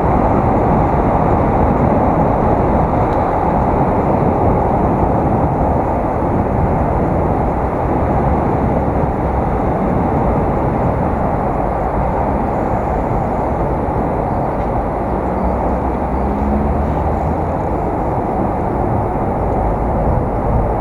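Steady, loud wind rush on an action camera's microphone while riding a bicycle.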